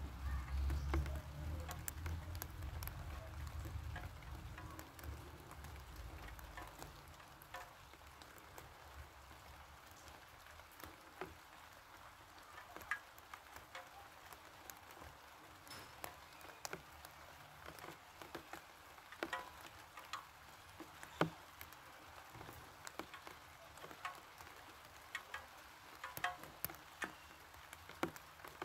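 Light rain: faint steady hiss with scattered single raindrops tapping at irregular intervals. A low rumble in the first few seconds fades away.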